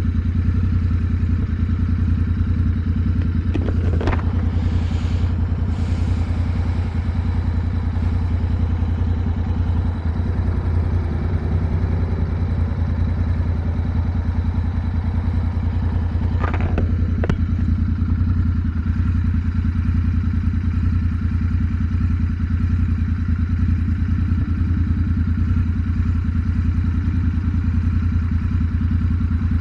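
Motorcycle engine running at a steady cruise, its note holding level with no revving up or down. Two brief noises cut across it, about four seconds in and again around sixteen seconds.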